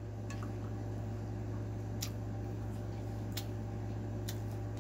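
Close-miked chewing of chow mein noodles, with a few short wet mouth clicks over a steady low hum.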